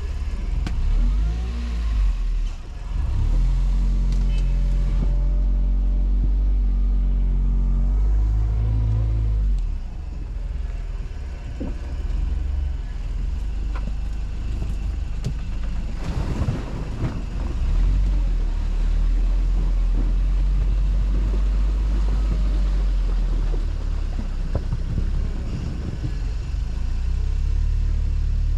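T-Rex quad bike (ATV) engine running under load as it is ridden, with a steady low rumble. The engine note climbs and changes as it revs between about 2 and 10 seconds in.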